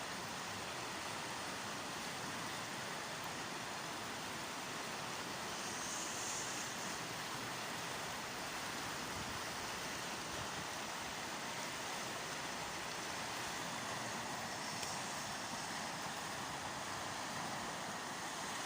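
River water rushing, a steady even hiss of flowing current.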